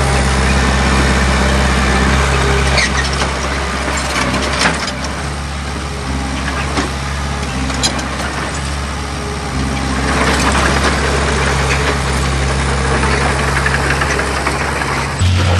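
Heavy diesel engine of earthmoving machinery running steadily, with a few sharp clanks of metal and stone. A broader rush of noise builds from about ten seconds in.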